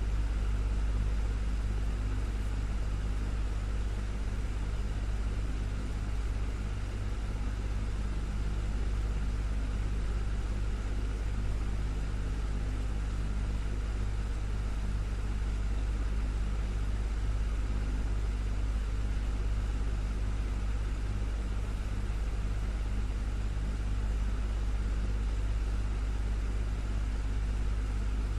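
Desktop fan running steadily: a constant low hum with a few steady tones and an even airy whoosh, unchanging throughout.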